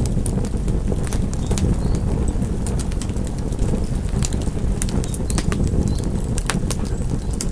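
Fireplace fire crackling: a steady low rumble of flames with sharp, irregular pops and snaps, about three a second.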